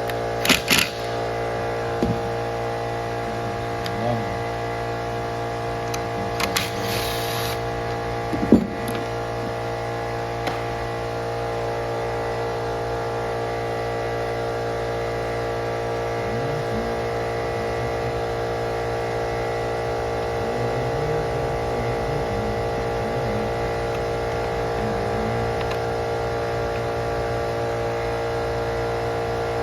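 Steady electrical hum holding an even level throughout. Several short clicks and knocks land in the first nine seconds, the loudest about eight and a half seconds in.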